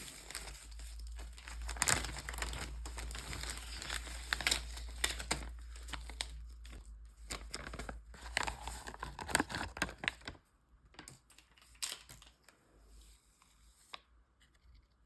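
Crinkling and tearing, dense for about ten seconds, then thinning to a few scattered clicks and taps.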